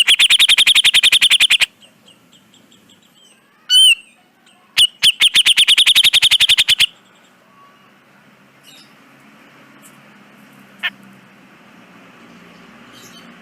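Cucak jenggot (grey-cheeked bulbul) calling: two fast runs of repeated high notes, about nine a second and each lasting about two seconds, with a single short note between them, then falling quiet except for one faint note.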